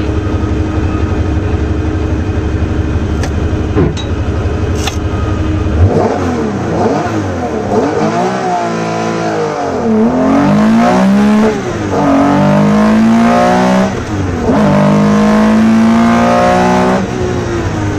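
Porsche 911 RSR's air-cooled flat-six heard from inside the rally car's cockpit. It runs at a steady note at first, then about six seconds in the car sets off hard, the revs climbing and dropping again and again as it shifts up through the gears.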